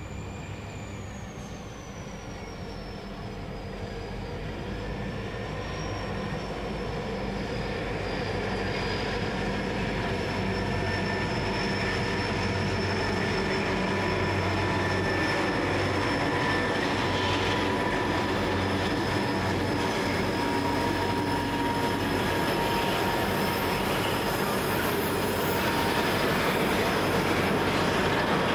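Two Pacific National 81 class diesel-electric locomotives run past with a steady engine drone that grows louder as they approach. A long rake of grain hopper wagons then rolls by, their wheels squealing in thin, high, sustained tones over the rumble of the wheels.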